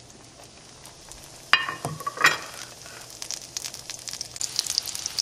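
Egg-dipped, floured chicken cutlets sizzling and crackling in hot butter and olive oil in a skillet, the crackle growing louder over the second half. Two sharp knocks come about a second and a half and two seconds in.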